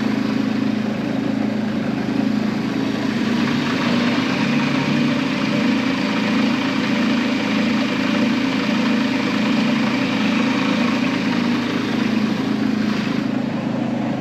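Truck engine idling with a steady low hum while it is slowly backed up; the sound eases slightly near the end.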